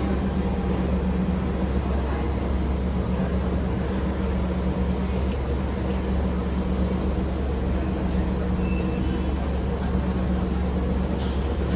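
Steady low hum and rumble inside a Singapore MRT train carriage, with a short click near the end.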